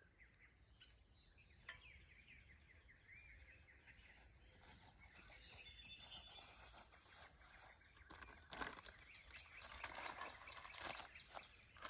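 Near silence: faint outdoor ambience with a steady high-pitched insect drone and a few faint bird chirps a couple of seconds in. Scattered light taps follow in the last few seconds.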